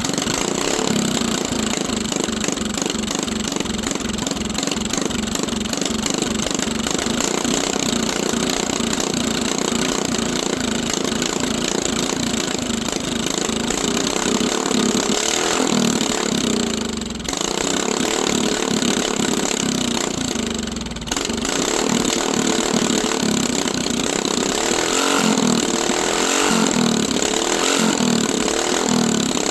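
Mini bike's small engine running, its speed wavering up and down, with two brief dips in the middle.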